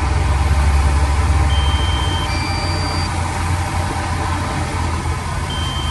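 Heavy machinery diesel engine running steadily, a little louder for the first two seconds. A thin two-note electronic beep sounds about two seconds in and starts again near the end.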